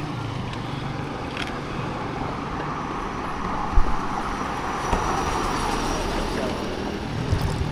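Motorcycle running on the road, a steady engine hum under road and wind noise, with a short thump about four seconds in.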